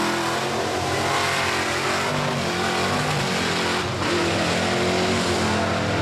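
Chevy mud truck's engine running at high revs, the note wavering up and down under a dense roar as it is driven through a mud pit.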